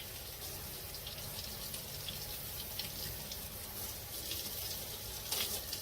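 Water spraying from the shower head of a portable propane tankless water heater: a steady hiss with a few brief splashes, a stronger one about five seconds in.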